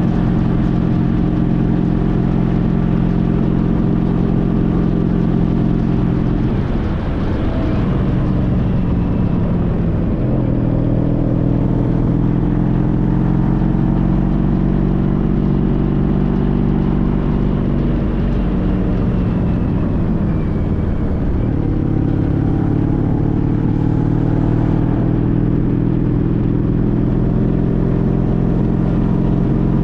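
A 2014 Honda CTX1300's V4 engine running while riding. The engine note drops and climbs back up twice, about seven seconds in and again around twenty seconds in.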